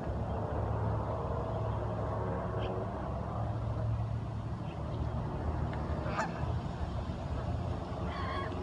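Waterfowl calling now and then: a few faint short calls, one sharp call about six seconds in and a honking call near the end, over a steady low rumble.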